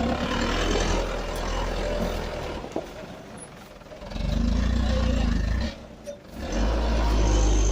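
Mitsubishi Canter light truck's diesel engine running, revving up twice in loud surges of a second and a half or so each, easing off in between.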